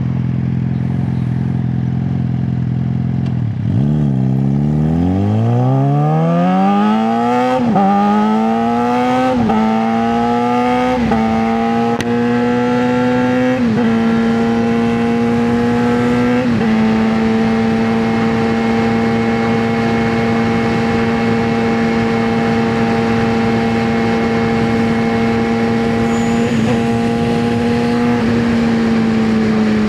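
2009 Suzuki GSX-R600 inline-four on a straight pipe, running steadily, then pulling away and accelerating hard up through the gears with a sharp drop in pitch at each upshift, about five shifts. After that it cruises at a steady pitch, with a small blip of the throttle near the end.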